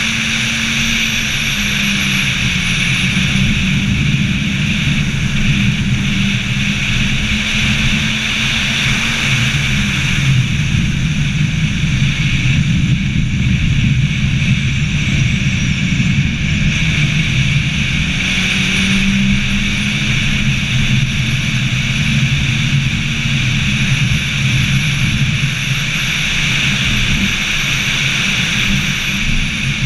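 Rally car engine running hard at speed, its note shifting up and down several times as the revs change, heard from a camera mounted outside on the bonnet with a steady rushing noise over it.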